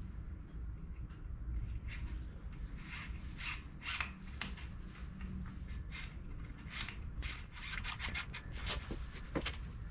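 Irregular rubbing and scraping with short sharp clicks, from hand work on bike parts.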